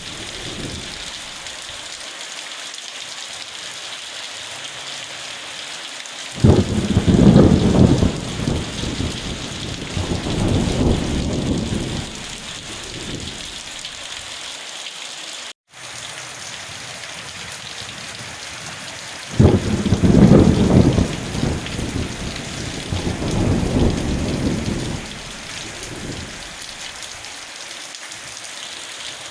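Steady heavy rain hissing, with rolling thunder that breaks in suddenly twice, about six seconds in and again a little past the middle, each rumble lasting several seconds. The sound cuts out for an instant near the middle.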